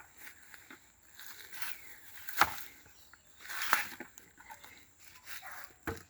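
Three sharp wooden knocks over faint rustling, the first the loudest, as covers are set onto Langstroth hive boxes.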